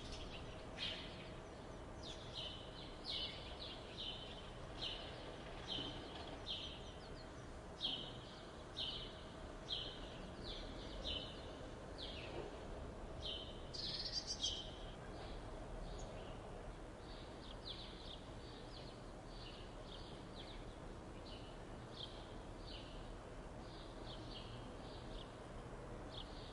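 Birds chirping in the morning: short, high chirps repeating about twice a second over a steady background noise, with a louder burst of calls about 14 seconds in.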